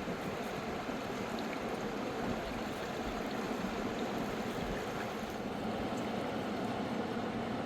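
Steady rushing of a fast-flowing mountain river, an even wash of water noise.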